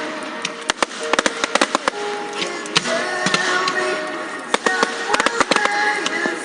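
Fireworks crackling and popping in rapid clusters of sharp cracks, a dense run in the first two seconds and another about two-thirds of the way through, over music playing throughout.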